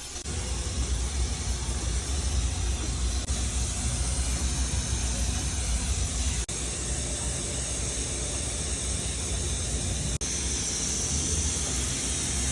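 Car-wash vacuum running: a steady rushing hiss of air through the hose over a low rumble, with two brief breaks.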